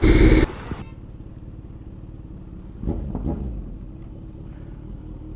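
A loud, abrupt half-second burst of noise at the start, then a steady low engine hum from a motor vehicle, with faint voices about three seconds in.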